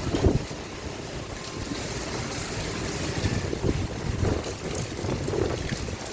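Heavy stormy rain with strong gusty wind buffeting the microphone in low rumbles.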